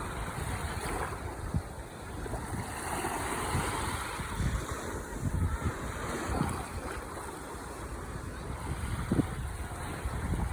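Ocean waves breaking and washing up the shore, with a wave surging in and hissing about three seconds in. Wind buffets the microphone in low thumps.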